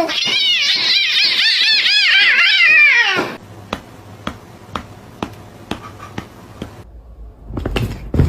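A cat calling in a fast run of short meows, each rising and falling in pitch, for about three seconds before it stops suddenly. After that come faint clicks about two a second and a low rumble with knocks near the end.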